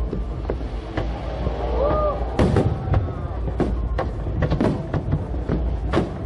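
Fireworks exploding in quick, irregular succession: about a dozen sharp bangs over a continuous low rumble of the display.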